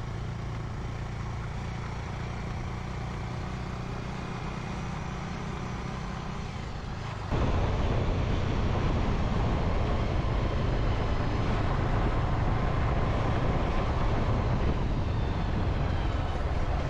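Motorcycle engine running on the move, with wind rushing over the microphone. About seven seconds in, the sound jumps suddenly louder, with much more rushing noise.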